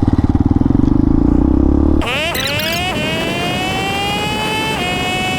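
Hawk 250 dual-sport motorcycle's single-cylinder engine running at low revs with a pulsing rumble. About two seconds in it switches abruptly to the bike pulling away: the engine note rises, drops at a gear change about a second later, rises again and drops at a second shift near the end.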